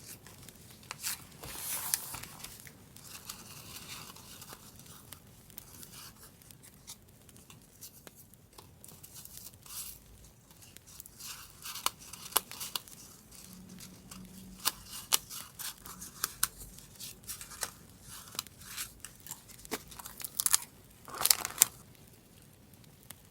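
Paper being handled up close for a scrapbook journal: rustling and tearing, with scattered sharp clicks and snaps throughout. A longer tearing sound comes about a second in, and another near the end.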